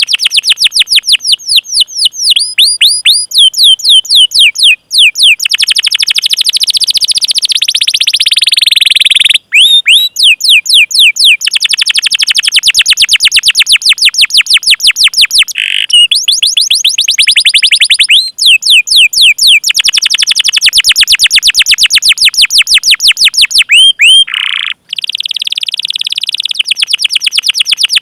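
Domestic canary singing long rolls of rapid, repeated downward-sliding chirps ("cuit cuit"), about ten a second, broken by brief pauses every few seconds.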